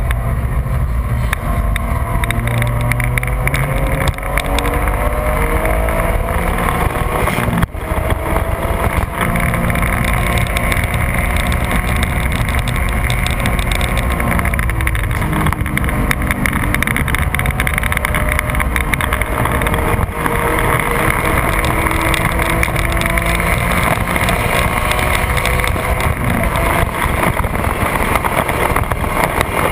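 A 2004 Porsche 996 GT3's 3.6-litre flat-six is driven hard on track and heard from inside the cabin over steady road and wind noise. Its pitch climbs through the gears, with brief drops at upshifts about 4 and 8 seconds in, and it falls away around 15 seconds as the car slows for a corner.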